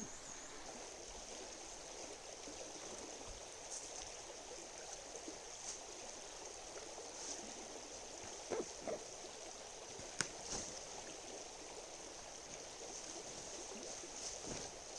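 A river flowing steadily, a faint even rush of water, with a few faint clicks around eight and ten seconds in.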